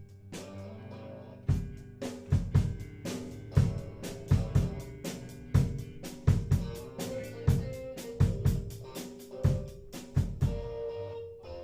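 A band playing: a drum kit beats out snare and kick-drum hits over held bass and guitar notes.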